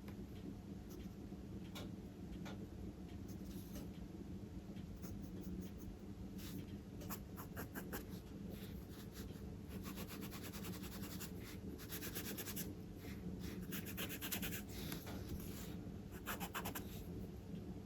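Charcoal scratching on drawing paper in quick shading strokes, scattered at first and then coming in dense rapid runs through the second half, over a faint steady low hum.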